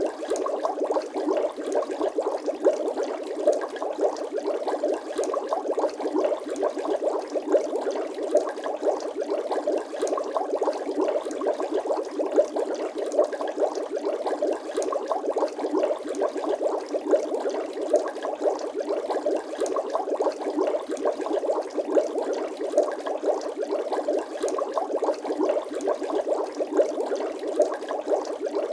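Bubbling water sound effect: a steady, dense stream of small bubble pops and gurgles.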